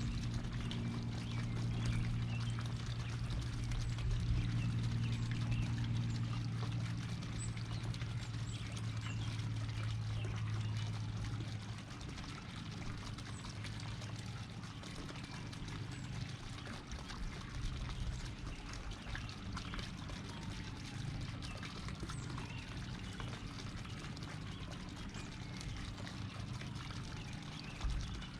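Outdoor ambience with scattered short bird chirps over a steady hiss. A low steady hum runs for the first dozen seconds or so, then fades out.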